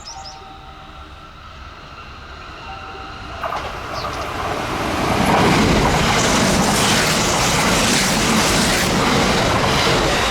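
Kintetsu electric train approaching and passing at speed, its wheels clattering over the rail joints. It grows louder from a few seconds in and is loudest through the second half.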